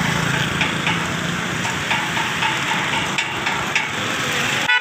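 An engine running steadily, a low hum with faint regular ticks, cut off abruptly near the end.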